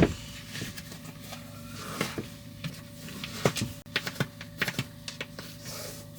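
Irregular clicks and knocks of things being handled in a small space, over a steady low hum.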